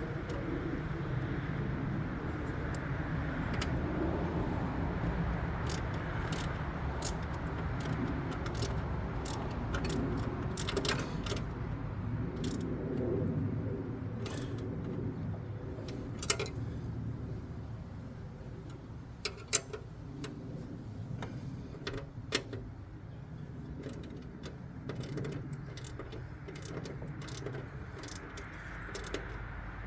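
Scattered sharp metal clicks and clinks of hand tools and parts being handled while working on a Ryan Greensaire core aerator, over a steady low rumble.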